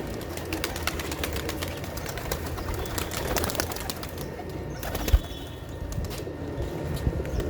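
Domestic pigeons cooing, with scattered short clicks and a single sharp thump about five seconds in.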